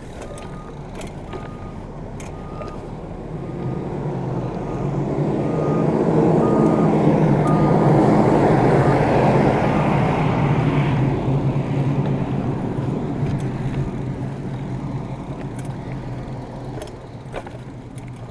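Concrete mixer truck backing up: its reversing alarm beeps about twice a second, stopping about eight seconds in, over the diesel engine, which grows louder toward the middle and then fades away.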